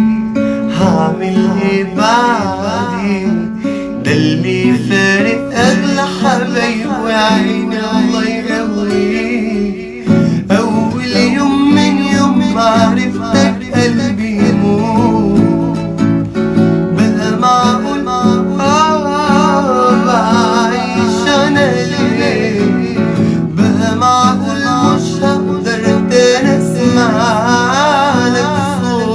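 Music: acoustic guitar playing under a man's singing voice, which comes in stretches with wavering held notes.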